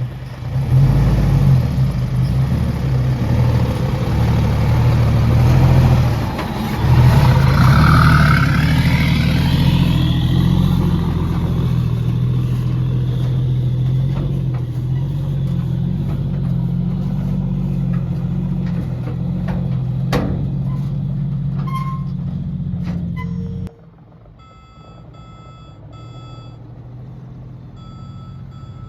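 Heavy diesel earthmoving machinery running with a steady deep engine note under load. About two-thirds of the way through it cuts off abruptly, leaving a quieter background with faint repeated beeps like a reversing alarm.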